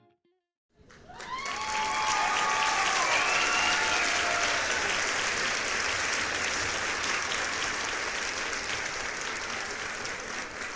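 Crowd applause and cheering, with a few voices calling out early on. It starts suddenly about a second in and slowly eases off.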